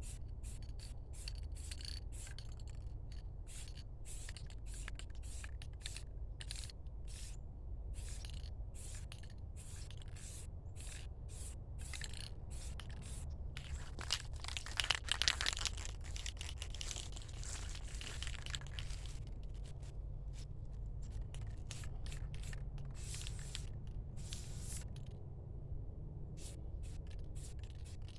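Spray paint hissing out in many short, quick bursts, with one longer, louder spray about halfway through, over a steady low hum.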